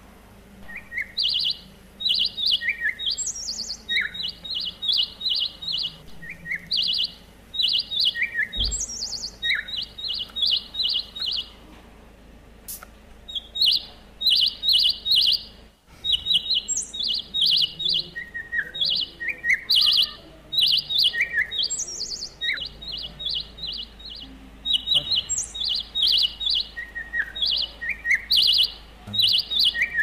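Small birds chirping: quick runs of short, high chirps over and over, with now and then a sharper rising call.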